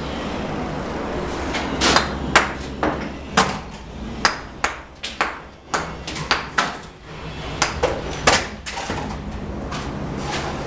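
A steel mason's trowel knocking and clinking in a string of about a dozen sharp, uneven taps over several seconds, amid steady scraping noise from bricklaying work.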